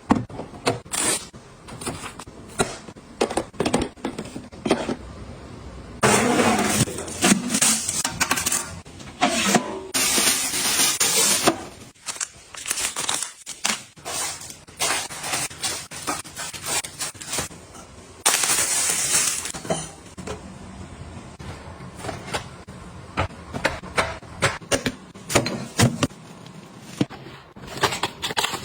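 Close-up handling sounds of items being put away: a run of small clicks, taps and clinks as containers are picked up and set down, with a few longer hissing, rustling stretches in between.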